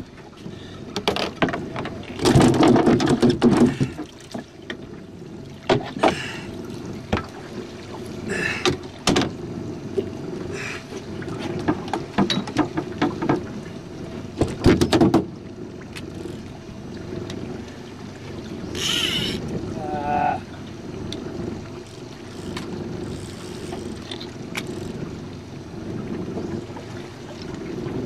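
A small aluminium jon boat out on the water: a steady hum, as from its motor running, under repeated knocks and clatter against the hull. The clatter is loudest a few seconds in and again around fifteen seconds in.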